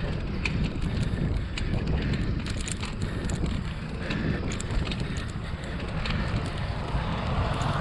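Wind buffeting the microphone of a camera on a moving bicycle, a steady low rumble with road and tyre noise, and scattered light ticks throughout.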